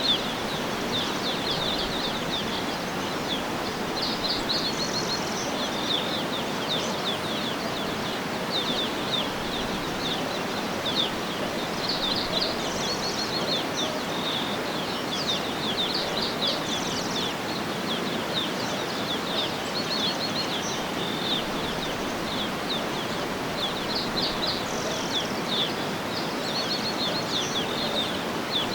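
Small birds chirping in quick runs of short, high notes throughout, over a steady background hiss.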